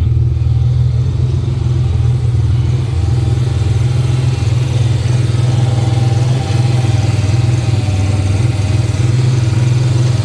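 Truck engine idling steadily, its freshly refitted alternator and drive belt turning, with no bad rattling.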